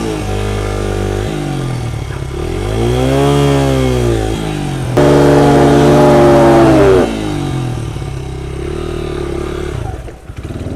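Small pit bike engine running and revving up and down, with a louder, higher rev held for about two seconds in the middle before it falls back. Near the end the revs drop off briefly.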